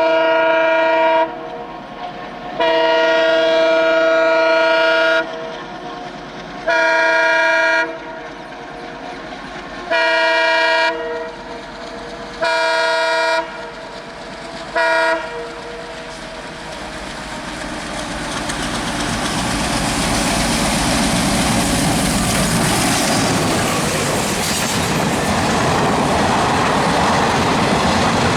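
Diesel locomotive horn sounding six blasts, the first two long and the rest shorter, the last a brief toot. Then the train's running noise and wheels clattering over the rail joints build up as it comes close and passes.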